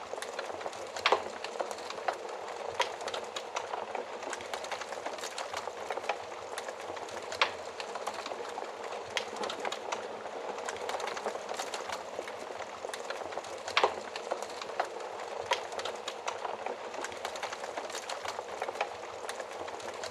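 Fire burning inside an oven: a steady hiss with frequent small crackles and a few louder sharp pops, the loudest about a second in, near seven seconds and near fourteen seconds.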